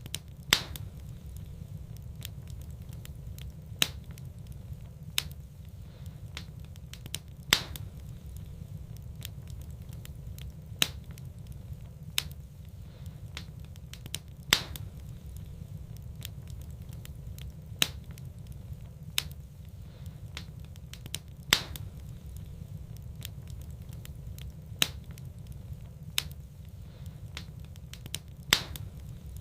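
Wood fire in a fireplace crackling, with sharp pops every one to three seconds and smaller snaps in between, over a steady low rumble. The same pattern of pops repeats about every seven seconds, as in a looped recording.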